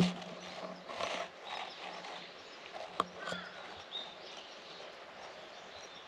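Outdoor garden ambience with small birds chirping now and then, plus a sharp click at the start and another about three seconds in.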